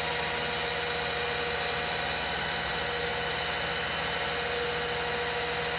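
Heavy vehicle engine running steadily at constant speed, with an even, unchanging whine over it.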